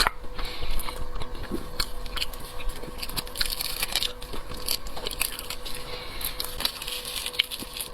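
Close-miked eating of seafood: chewing and biting with many wet clicks and small crunches, under a faint steady electrical hum.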